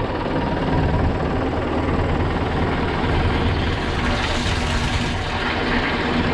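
Old Massey Ferguson tractor engine running steadily, with a hiss that comes up about four seconds in.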